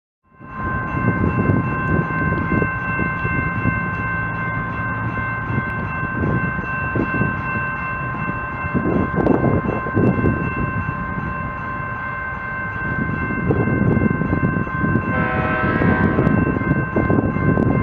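A passing train rumbling, with a steady chord of several high notes, like a train's air horn, held the whole time. A shorter, different pitched tone cuts in briefly near the end.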